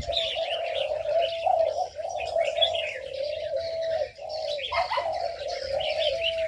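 Aviary birds: several doves cooing almost without a break, their calls overlapping, with many small birds chirping quickly above them.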